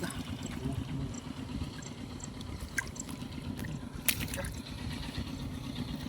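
Shallow field water trickling and splashing, with a few short sharp clicks, the loudest about four seconds in, over a steady low hum.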